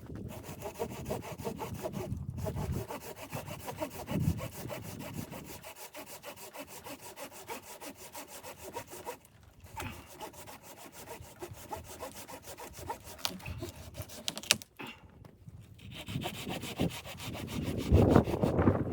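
Wood being cut with a hand saw in steady back-and-forth strokes, with brief pauses about two, nine and fifteen seconds in.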